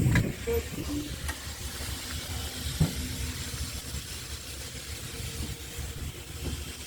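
Wood-fired steam locomotive standing in steam, hissing steadily over a low rumble, with a single knock about three seconds in.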